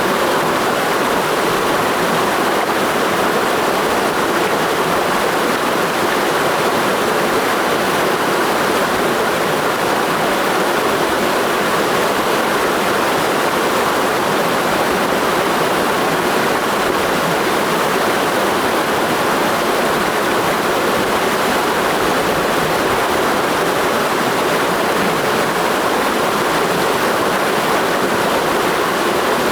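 Mountain stream flowing in a steady, even rush of water.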